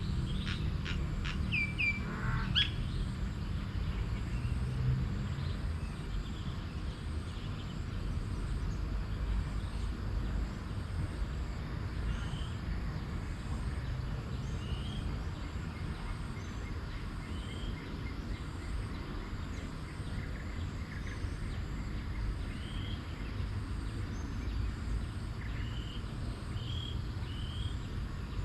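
Wild birds calling over outdoor ambience: a burst of quick chirps and falling calls about two seconds in, then single short chirps every couple of seconds. Underneath runs a steady low rumble and a faint, evenly pulsing high buzz.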